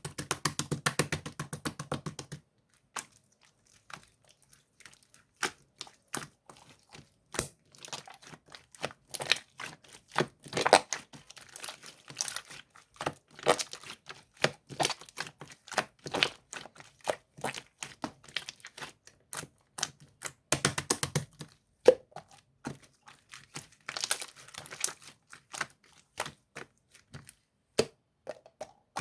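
Slime being squeezed and folded by hand, making rapid sticky clicks and crackles. Dense runs of popping come at the start and again about two-thirds of the way through.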